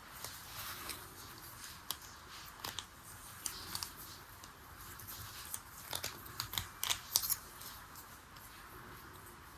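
Small objects being handled close up: scattered light clicks, taps and rustling, thickest about six to seven seconds in.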